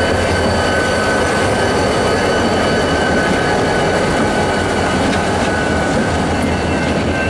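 Freight train rolling by close at hand: a steady, loud rumble of wheels and cars, with a thin, steady high squeal above it.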